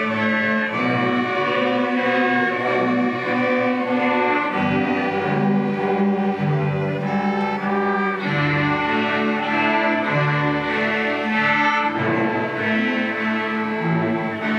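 A string orchestra of violins and cellos playing a piece, with sustained bowed notes and low bass lines that change pitch every second or so.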